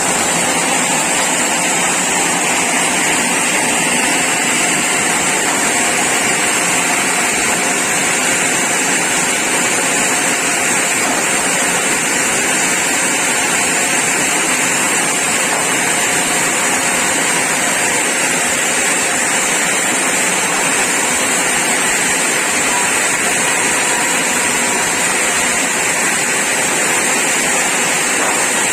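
Sawmill saw running steadily and loudly, a constant mechanical din with a hissing high end and no breaks.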